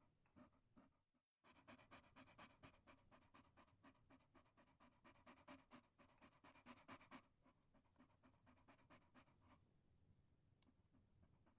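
A Chihuahua panting rapidly in quick, even breaths. There is a brief break about a second in, and the panting stops near the end.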